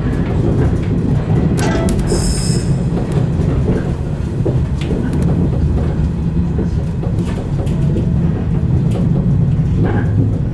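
115-series electric train running on the rails, a steady low rumble with scattered clicks, and a brief high squeal about two seconds in.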